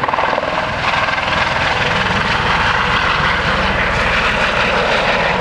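Helicopter in flight just after takeoff: a loud, steady rush of rotor and turbine noise with a fast, even pulsing from the rotor blades.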